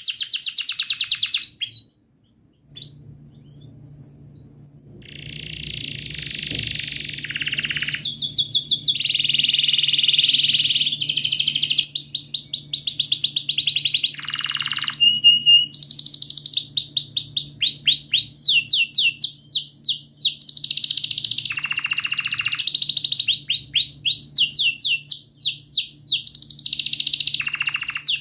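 Domestic canary singing a long, loud song of fast trills and rolling runs of repeated high chirps. The song cuts out briefly about two seconds in, then comes back softly and builds back up to full strength.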